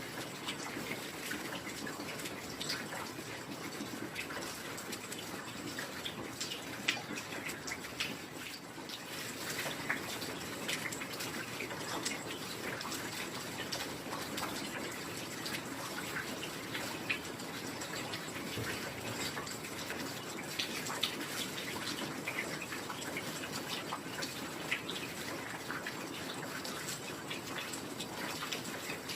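Steady heavy rain: an even hiss with many small drop impacts ticking through it and a few sharper drops standing out now and then.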